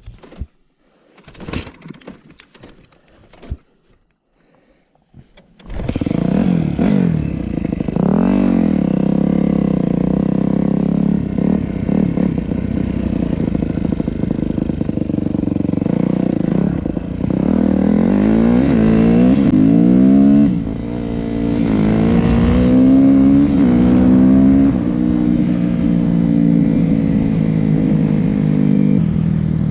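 A few scattered clicks and knocks, then about six seconds in a Yamaha YZ250F's four-stroke single-cylinder engine starts and runs loudly, revving up and down repeatedly with rising sweeps in pitch.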